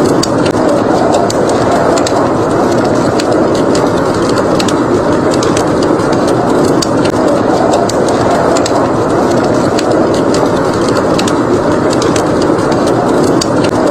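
Wood fire crackling, with sharp irregular pops scattered throughout, over a steady rushing of blizzard wind.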